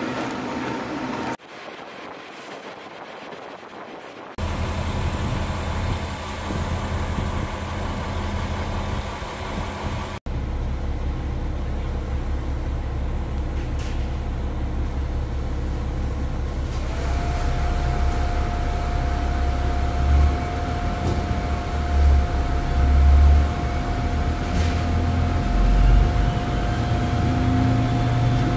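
Train running, with a steady low rumble. The sound drops abruptly about a second in and comes back at about four seconds. A steady whine joins a little past halfway.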